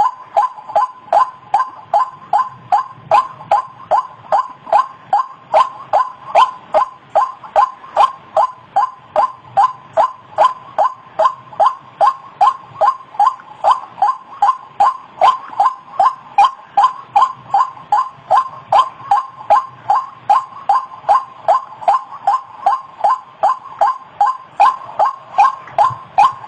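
White-breasted waterhen (ruak-ruak) calling: one short note repeated evenly, about three a second, without a break.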